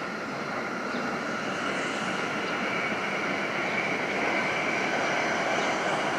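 Shinkansen bullet trains passing at speed on a viaduct: a steady rushing hum with a faint whine in it, swelling slowly.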